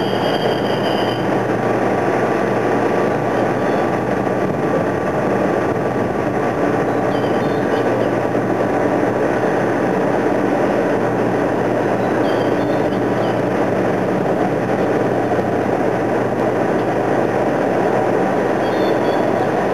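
Steady, loud engine noise with a low hum, unchanging throughout.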